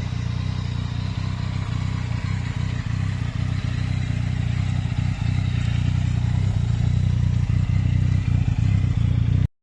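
Motorcycle engine running at a steady speed, slowly growing louder.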